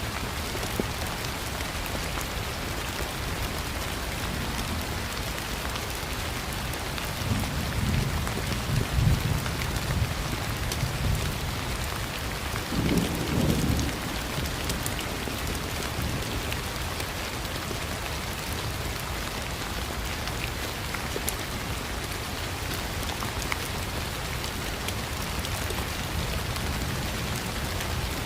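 Steady rain falling, with low rumbles of thunder rolling in twice, about a quarter of the way through and again just before the middle.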